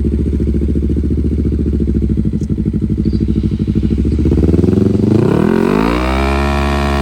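Mini bike engine idling with an even pulsing beat, then revving up about four and a half seconds in and holding steady at high revs.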